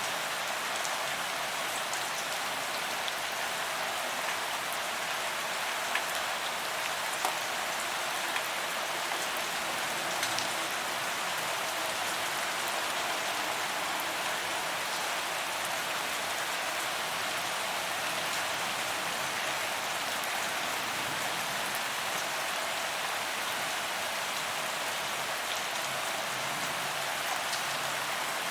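Steady rain falling on pavement, an even hiss of drops with scattered sharper drop ticks, a few of them louder near the middle.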